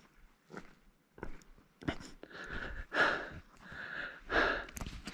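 A person breathing hard through the mouth while hiking, several heavy breaths in a row, the loudest near the end.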